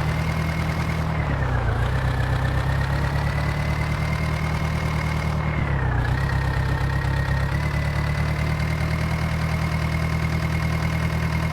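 Heavy diesel engine of the loading machinery running steadily at raised revs, its pitch sagging briefly and recovering twice.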